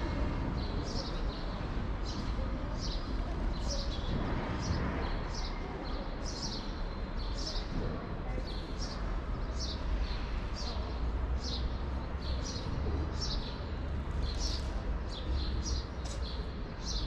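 A small bird chirping over and over, short sharp notes about one and a half a second, over a steady low city rumble.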